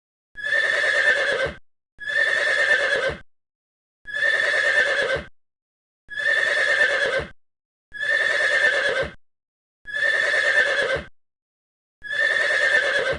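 A short animal call, the same call repeated seven times at even intervals about two seconds apart, each lasting a little over a second.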